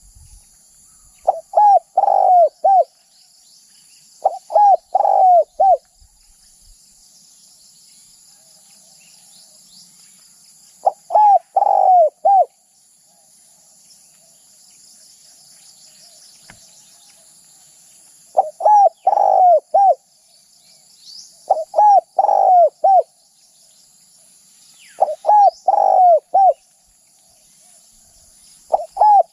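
Spotted dove cooing: about seven short phrases of a few quick coos each, spaced several seconds apart. Behind it runs a steady high insect hiss with faint chirps from small birds.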